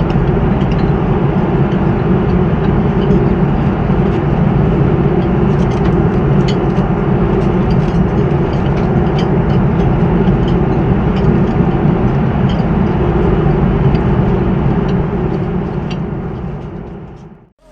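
Steady engine and airflow noise inside the cabin of an Airbus A330-300 airliner, a dense low rumble with a few faint ticks, fading out near the end.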